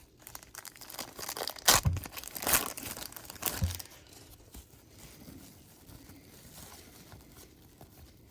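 A trading-card pack wrapper being torn open and crinkled, with sharp crackles and a few loud snaps in the first four seconds. Fainter rustling of cards being handled follows.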